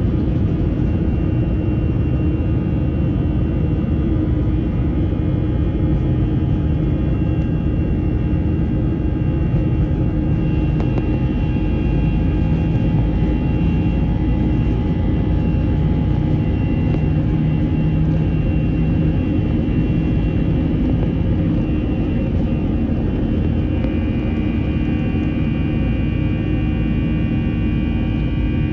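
Airbus A321 jet engines at takeoff thrust heard inside the cabin: a loud, steady rush with several whining engine tones over it, some growing stronger about halfway through and again near the end.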